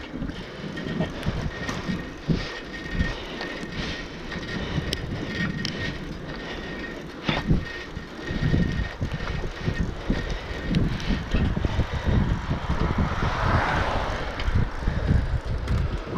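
Wind gusting over an action camera's microphone during a bicycle ride, with the bike's rattles and clicks over the road surface.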